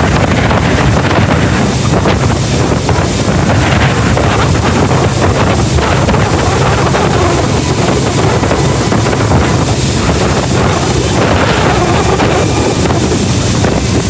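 A tour boat's motor running steadily under way on the river, with wind buffeting the microphone.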